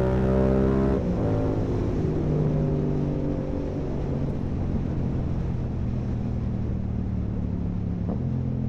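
Yamaha R7's parallel-twin engine through an Akrapovic full-carbon exhaust with the dB killer out, rising in pitch under acceleration and dropping sharply about a second in, then running at a steadier note over wind rush. A short rise in pitch near the end.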